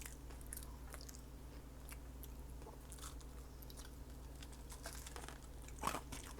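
Close-up chewing of a taco: soft, wet mouth clicks and smacks scattered throughout, with a louder few near the end, over a faint steady low hum.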